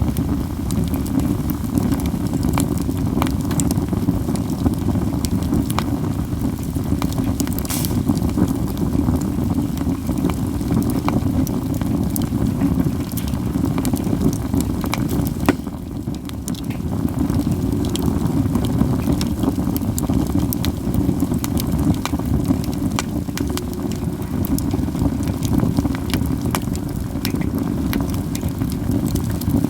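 Katsura wood campfire burning, with constant crackling and frequent sharp snapping pops over a steady low rushing noise; one especially loud pop about 8 seconds in.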